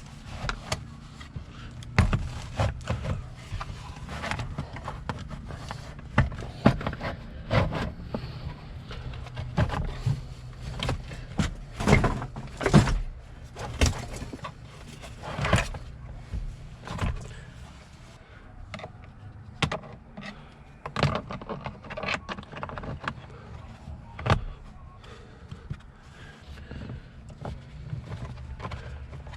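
Irregular clicks, knocks and rattles of car interior trim and console pieces being handled and fitted back in place, over a low steady hum that fades out about two-thirds of the way through.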